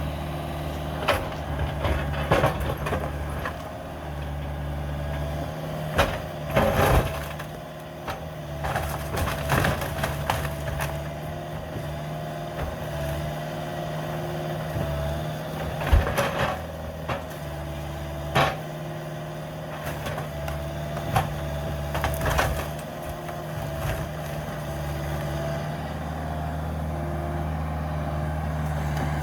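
Cat 305 mini excavator's diesel engine running, its pitch and load rising and falling as the hydraulics work, while timber cracks, splinters and crashes at irregular moments as a house is torn apart. The loudest crack comes about halfway through.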